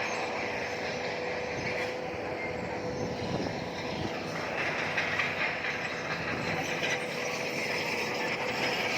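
Bulldozer's steel crawler tracks clattering and squealing as the machine moves, over a steady mechanical whine.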